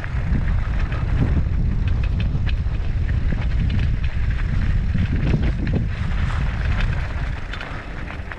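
Mountain bike rolling down a steep dirt trail: a steady low rumble of wind on the microphone with tyre noise, and scattered clicks and rattles from the bike.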